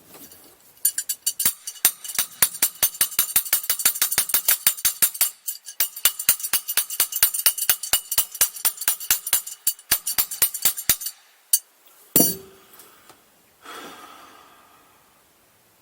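Socket ratchet clicking rapidly, about six clicks a second for some ten seconds, as it is worked against a seized fastener that won't budge. Then a single sharp metal clank.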